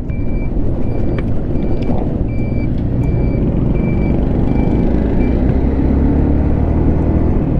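Motorcycle riding along the road, its engine and the wind making a steady rumble. Over it, a short high electronic beep repeats about every two-thirds of a second and stops about five and a half seconds in.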